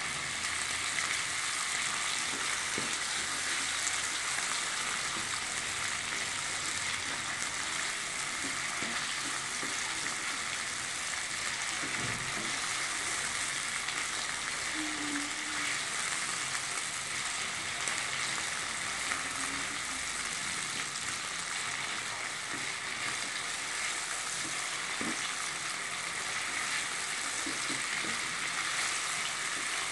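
Steady sizzle of potato sticks and sliced onion frying in hot oil in a wok, stirred continuously with a slotted spatula.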